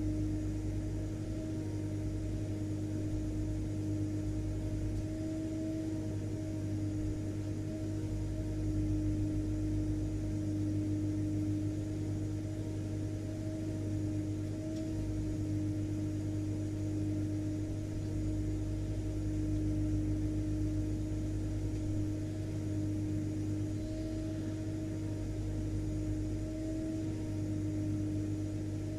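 Vacuum cleaner motor running steadily, a constant whine over a low hum and the rush of air.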